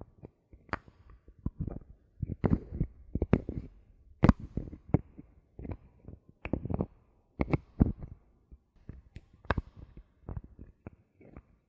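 Bottle caps handled close to the microphone: an irregular run of taps, clicks and soft thuds, a dozen or more, with a few sharper clicks mixed in.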